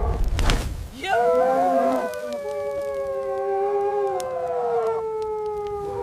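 Wolves howling: long overlapping howls that start about a second in and slowly fall in pitch, after a brief rush of noise.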